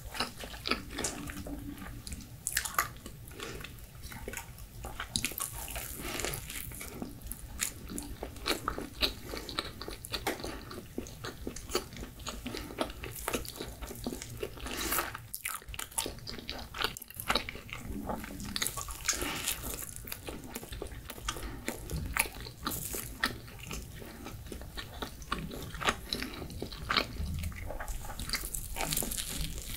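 A person biting and chewing pizza with its crust: wet mouth sounds with many small clicks and crunches in quick, irregular succession.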